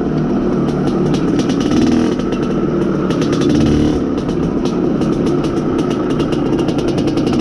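IZh Planeta Sport motorcycle's single-cylinder two-stroke engine running steadily while riding, during its break-in, with many short clicks and rattles over it.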